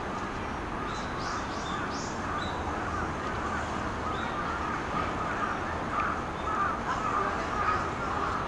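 Birds calling in the background: repeated calls that grow louder in the second half, with a few short high chirps about a second in.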